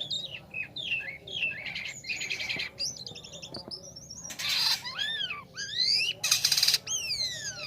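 Jalak kapas starling singing a rapid, varied song: gliding whistles rising and falling, fast rattling trills, and two harsh buzzy bursts in the second half.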